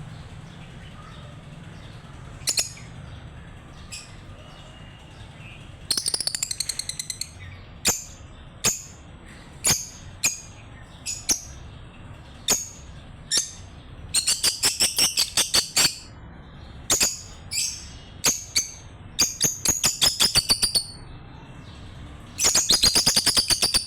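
Lovebirds chirping: sharp, high chirps, some single and some in fast runs of many notes in a row, over a steady low background hum.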